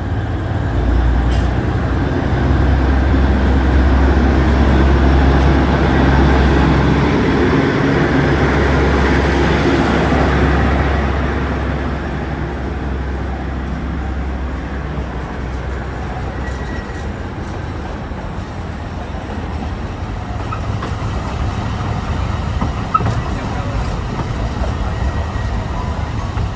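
Alishan Forest Railway train running, heard from aboard as a steady low rumble that swells in the first ten seconds, then eases a little.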